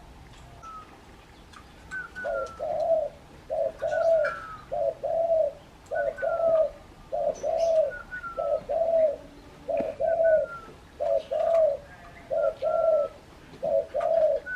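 Spotted dove (terkukur) cooing over and over: a run of low paired coos, about one pair a second, starting about two seconds in.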